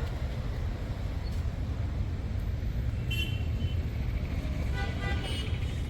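Steady low rumble of vehicle engines, with a short high-pitched toot about three seconds in.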